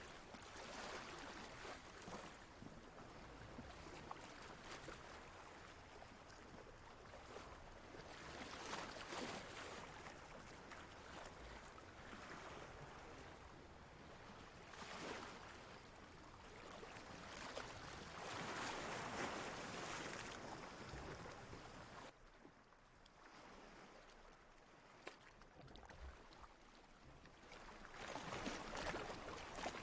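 Ocean waves washing in and drawing back, rising and falling in soft swells every few seconds, with a quieter lull for several seconds in the last third.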